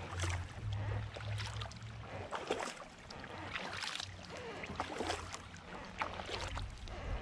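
Kayak paddle blades dipping into the water and splashing, with drips off the blades, in an uneven rhythm of strokes.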